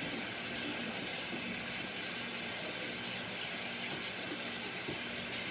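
Steady hiss of background noise with a faint, even low hum; no distinct sound event.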